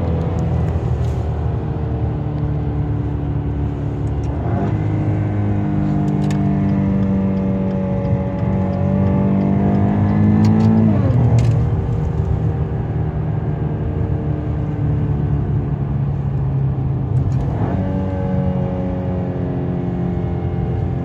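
Maserati Quattroporte V6 engine and exhaust under acceleration: the engine note climbs steadily in pitch, then drops sharply at a gear change about 11 seconds in, with other shifts near 4 and 17 seconds.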